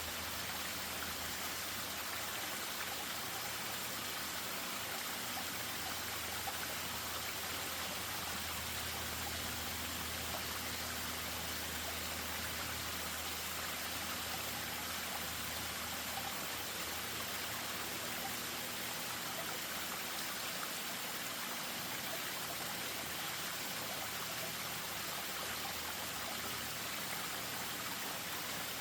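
Spring-fed stream running over a small waterfall: a steady, even rush of water.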